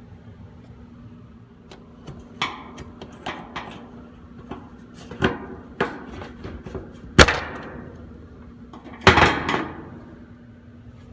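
Scattered knocks and clicks of a washing machine's back cover and its tabs being worked loose and handled, with a sharp knock about seven seconds in and a longer clatter about nine seconds in.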